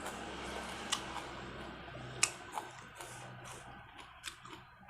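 A person eating between words: a few sharp clicks and smacks of chewing, the clearest about a second in and two more after about two seconds, over a low steady hum.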